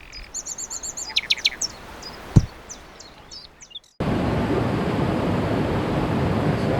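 Songbirds chirping and trilling in quick repeated notes, with one sharp click about two and a half seconds in. About four seconds in, an abrupt cut switches to the steady, louder rush of a flowing stream.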